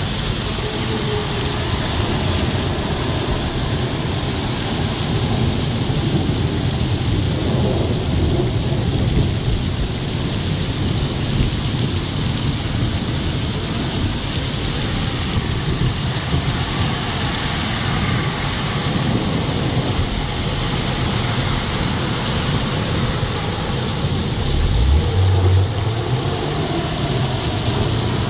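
Heavy thunderstorm downpour on a flooded street: a steady hiss of rain pouring onto standing and running water. About three quarters of the way through, a low rumble swells briefly and is the loudest moment.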